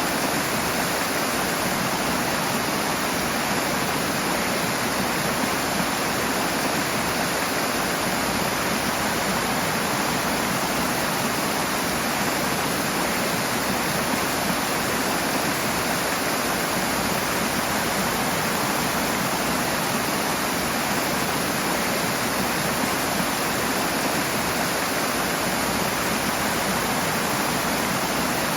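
Rushing water, a loud steady torrent like a waterfall or fast stream, with no change in level.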